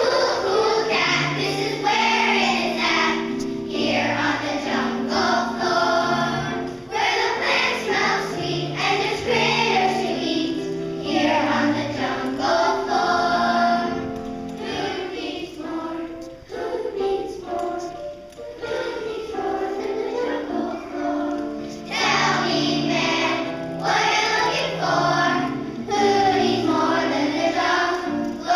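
A group of children singing together as a choir over instrumental accompaniment.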